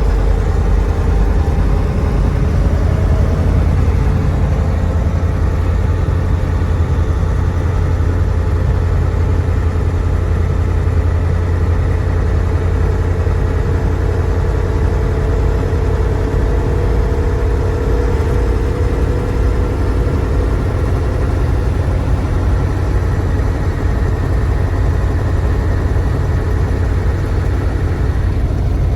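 Mercedes-Benz OM442 15-litre V8 diesel of a 1729 truck running steadily, with a deep low rumble and small drifts in pitch.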